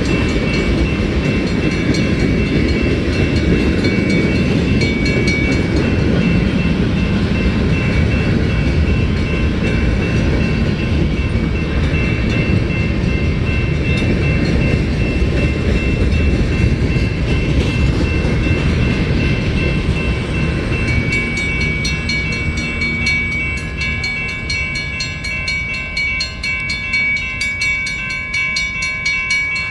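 Freight train cars rolling past: a loud, steady rumble of wheels on rail with a thin high ringing tone over it. The rumble fades after about twenty seconds, leaving quicker, lighter clicking from the wheels.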